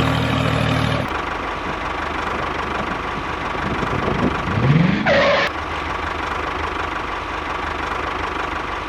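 Small engine running steadily, with a brief louder rising sound about five seconds in.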